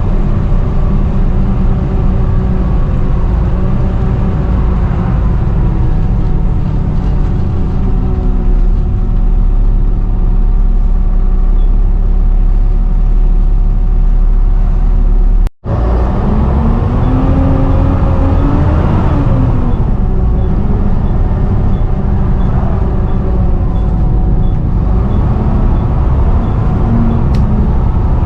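Volvo B7TL double-decker bus's D7C six-cylinder diesel engine running under way with its loud, vacuum-cleaner-like 'hoover' whine. The pitch rises and falls as the bus pulls away about two-thirds of the way through, and the sound breaks off for an instant just past halfway.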